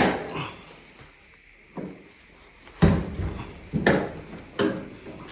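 A handful of sharp knocks and clicks from a flat blade working at a Samsung dryer's panel to pry it loose. The loudest knock comes about three seconds in.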